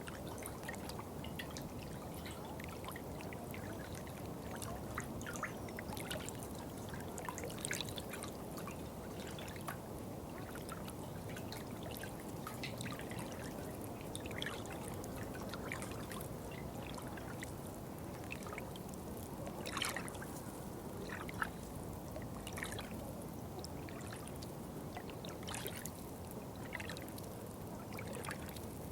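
Small stream of water trickling and splashing steadily, a continuous low rush dotted with many quick droplet splashes and small bubbling sounds.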